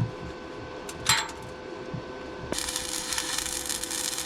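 A light metallic clink, then an electric welding arc starts abruptly about two and a half seconds in with a steady crackling hiss as a weld is run on the steel trailer frame.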